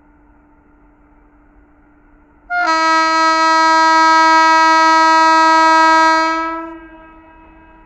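Indian Railways WAP7 electric locomotive's air horn sounding one long, loud blast that starts abruptly about two and a half seconds in, holds steady for about four seconds, then fades away.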